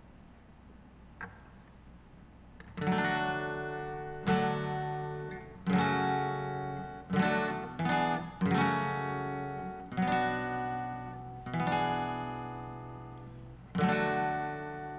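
Acoustic guitar strumming chords, starting about three seconds in: single strokes about every second and a half, each left to ring out. This is the introduction before a hymn is sung.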